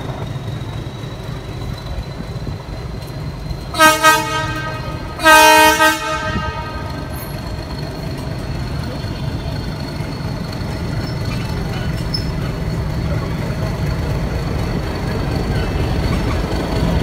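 Ooty toy train (Nilgiri Mountain Railway) pulling out of a station: two horn blasts about four and five seconds in, the second longer and louder, over the steady rumble of the carriages rolling past, which grows a little louder near the end.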